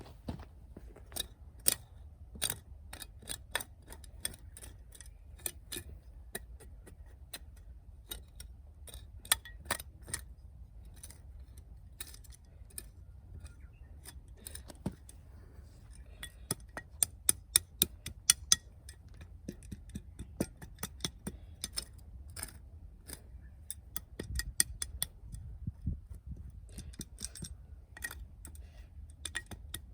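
Dry firewood burning in a campfire, crackling with irregular sharp pops and snaps over a low rumble, with a quick run of louder pops about two-thirds of the way through.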